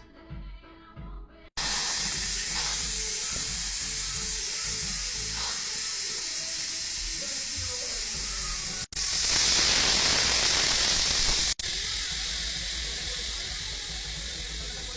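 Electric pressure cooker's steam release valve venting, a loud steady hiss of escaping steam as the pressure is let out after cooking. A middle stretch starting about nine seconds in is louder and brighter, with a thin high whistle, and the hiss eases a little near the end.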